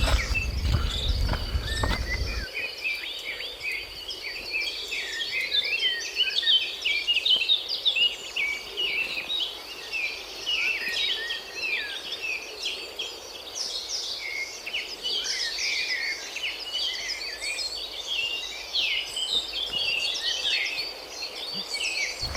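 Forest chorus: a steady high insect drone with many birds chirping over it. A low rumble in the first couple of seconds stops abruptly.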